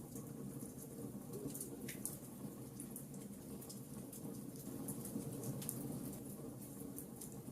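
Logs burning in a fireplace, crackling with frequent sharp pops scattered irregularly over a steady low rumble.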